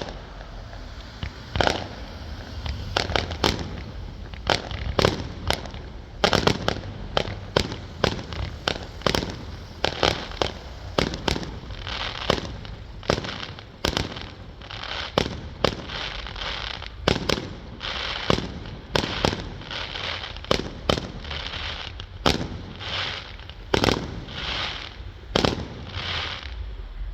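Fireworks display: shells bursting in quick, irregular succession, sharp bangs about one to three a second, with crackling and hiss between them.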